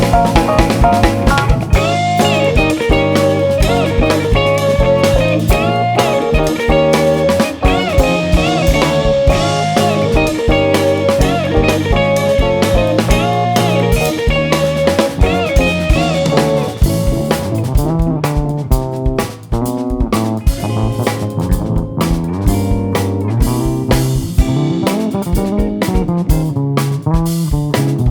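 Live jazz-fusion band playing instrumentally: electric guitar lines over bass and drum kit. The guitar bends notes, and about two-thirds of the way through the texture changes to choppier, more rhythmic playing before the fuller sound returns near the end.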